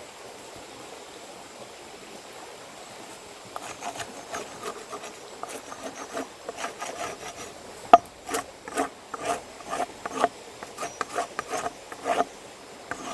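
Rhythmic rubbing and scraping strokes on a wooden board, about two to three a second, starting a few seconds in, with one sharp knock about eight seconds in.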